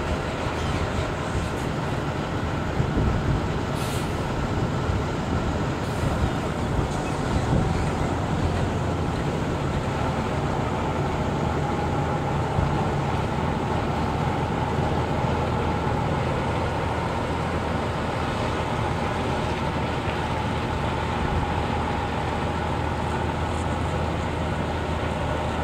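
Diesel engine of a tractor-trailer running steadily at low speed while the rig reverses, with a short hiss about four seconds in.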